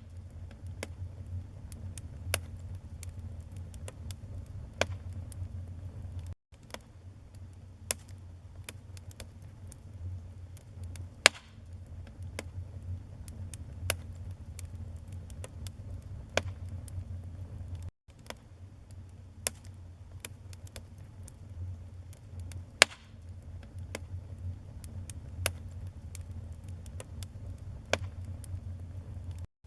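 Wood fire burning in a fireplace: a steady low rumble with irregular sharp crackles and pops from the burning logs, two much louder pops about a third of the way in and again past two-thirds. The sound cuts out for an instant twice.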